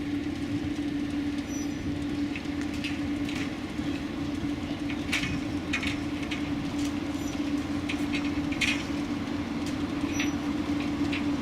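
Steady mechanical hum at one constant pitch, with irregular light clicks and ticks scattered through it.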